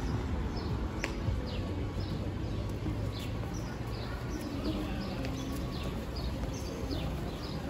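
Small birds chirping, a stream of short, high, downward-sliding notes repeating every half second or so, over a steady low rumble.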